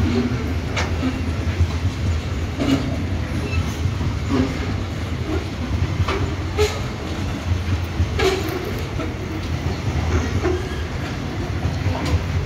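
Freight train of covered hopper wagons rolling past at close range: a steady low rumble of steel wheels on rail, with sharp wheel clacks at irregular intervals every second or two.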